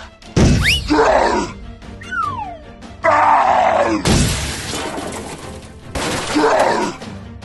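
Cartoon sound effects over background music: a sharp hit, quick whooshing pitch sweeps, then a loud crash with shattering noise and groaning grunts.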